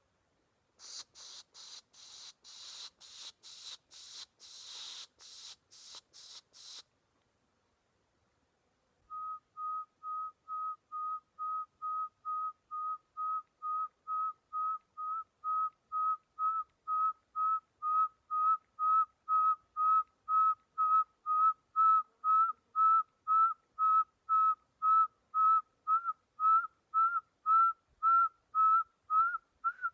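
A man pishing to draw in birds: hissing 'psh' bursts, two or three a second, for about six seconds. After a short pause he whistles an imitation of a pearl-spotted owlet's call, a long series of short, even whistled notes nearly two a second that grow steadily louder and edge up in pitch near the end.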